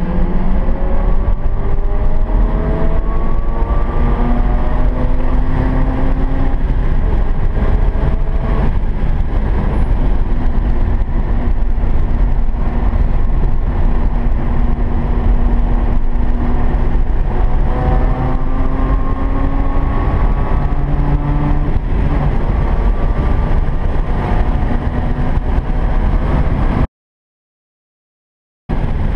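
Mazda RX-8's two-rotor rotary engine under hard throttle on a racetrack, heard from inside the cabin over a heavy road and wind rumble. The pitch climbs through two accelerations and holds steady between them, then the sound cuts out for about two seconds near the end.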